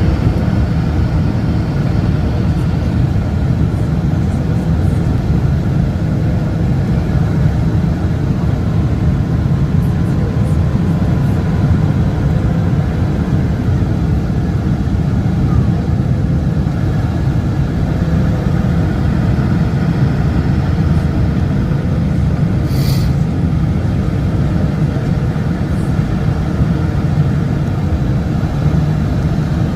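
Steady, loud drone of a Boeing 747's engines and rushing air heard inside the passenger cabin on approach, with a faint tone that wavers slightly. A brief click sounds a little past two-thirds of the way through.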